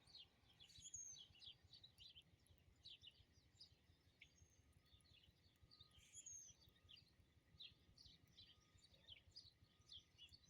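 Faint chorus of small songbirds chirping and tweeting, many short calls overlapping, with a few brief down-slurred notes, over a low steady rumble.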